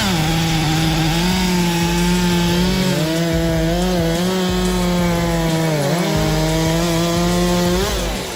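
Chainsaw running at high speed after revving up, cutting wood, its pitch dipping twice briefly as it loads in the cut. The engine note drops away near the end.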